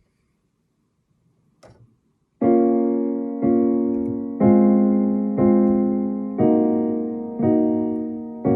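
Piano intro: chords struck about once a second, each ringing and fading before the next, starting about two and a half seconds in after near silence.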